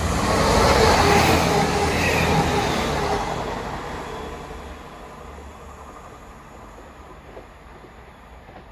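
A train passing by: a loud rush of wheel and rail noise that peaks about a second in, then fades away over the next few seconds as it recedes.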